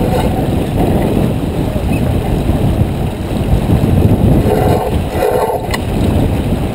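Wind buffeting the microphone on a J24 sailboat under way, a loud, steady low rumble.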